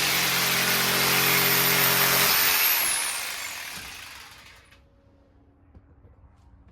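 Electric power saw cutting wood. It runs at full speed for about two and a half seconds, then the trigger is let go and the motor winds down, its whine falling in pitch and fading away.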